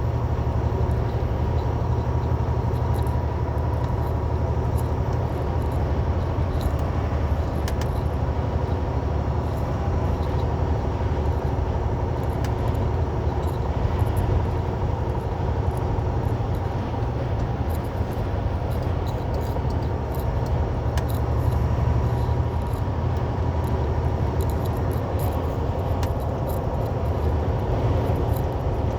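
Semi truck running at highway speed, heard from inside the cab: a steady low diesel drone with road noise and a faint steady whine above it.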